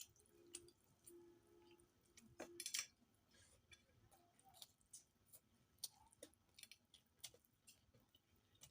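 Faint eating sounds: chewing with scattered short, wet mouth clicks, and a louder cluster about two and a half seconds in.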